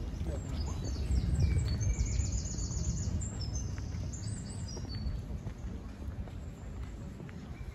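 A songbird singing a run of rapid high trills and chirps that stops about five seconds in, over a steady low outdoor rumble.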